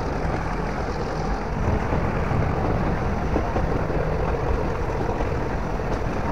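Nilgiri Mountain Railway metre-gauge train running, heard from a coach window: a steady rumble and rattle of the wheels and coaches.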